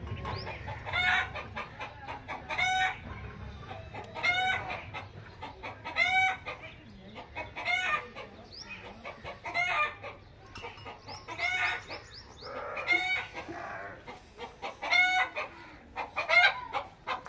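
A series of short, high-pitched animal calls, one every one and a half to two seconds.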